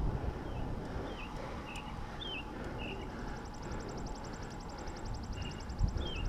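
Birds chirping in a string of short, quick notes, over a low rumble of wind on the microphone; about halfway in a fast, even, high-pitched ticking trill joins them.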